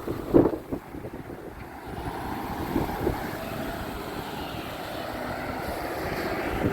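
A motor vehicle running steadily, with a few knocks in the first second, the loudest about half a second in.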